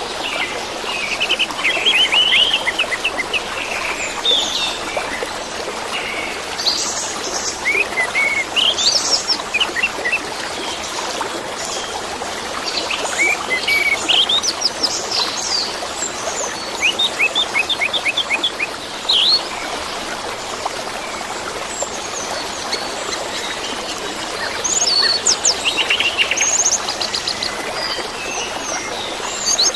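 Orange-headed thrush singing in varied phrases of quick repeated notes and rising whistles, over a steady rush of running water.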